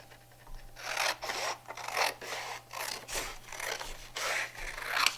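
Scissors cutting through paper: a run of short rasping snips, about two or three a second, as a tree shape is cut from a strip of white paper.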